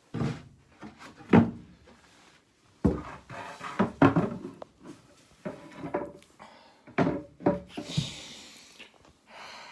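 Irregular knocks and rubbing sounds, about a dozen in all, with a soft rustle near the end.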